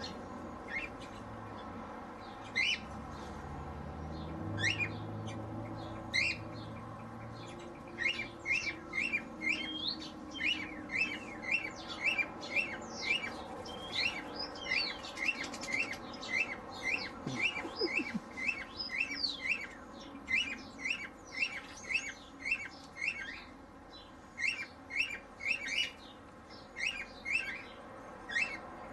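Aviary birds chirping: a few scattered calls, then from about eight seconds in a long run of short chirps repeated about two to three a second.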